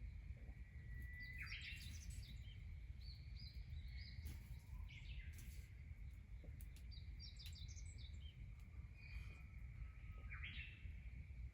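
Birds singing: several short phrases of whistles and quick chirps, some starting with a held whistle and ending in a fast flourish, over a steady low background rumble.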